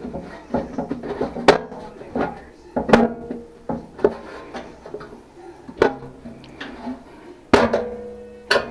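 Tools and metal parts of a central air unit being handled: about a dozen irregular clanks and knocks, several ringing briefly like struck sheet metal, the loudest clank about seven and a half seconds in.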